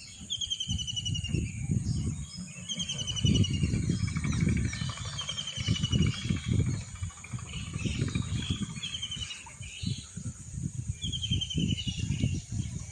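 Outdoor ambience with a bird repeating a short high trill every second or two, over a louder, irregular low rumble.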